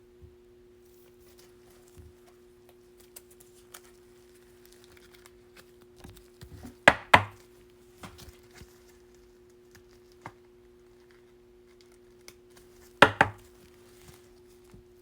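Baseball trading cards being handled on a table: small scattered ticks and rustles, with sharp slaps of cards, two close together about seven seconds in and another near thirteen seconds. A faint steady hum runs underneath.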